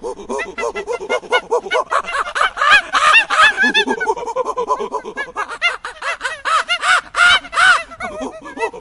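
A flock of birds calling together: many short, harsh calls overlapping, several a second, loudest about three seconds in and again near the end.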